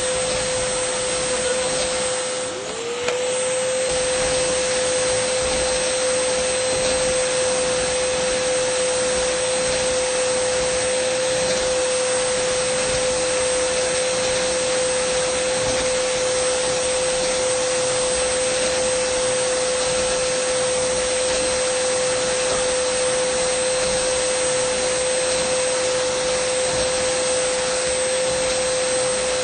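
Dyson vacuum cleaner running with a steady high motor whine over the rush of air. About three seconds in, it briefly dips in pitch and level, then rises back to its steady note.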